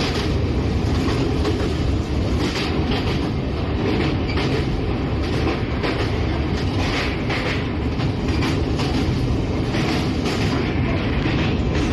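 Passenger train in motion, heard from inside an LHB coach: a steady rumble of the running gear with rail-joint clacks repeating at irregular intervals.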